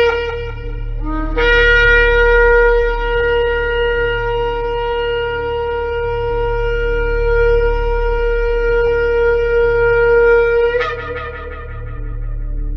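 Shofar blast: a short lead-in note, then one long held note of about nine seconds, ending in a brief upward break in pitch. A softer tone carries on after it.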